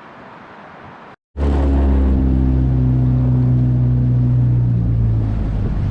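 Faint outdoor background, then after an abrupt cut about a second in, a boat's outboard motor running steadily at an even pitch.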